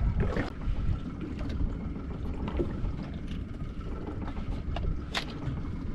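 Steady low rumble of water and wind around a small fishing skiff drifting on the current, with a few light taps and one sharp click about five seconds in.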